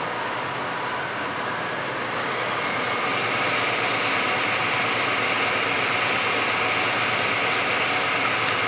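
Victor toolroom lathe running in high range, its whine rising as the spindle speed is brought up over the first few seconds, then holding steady at speed.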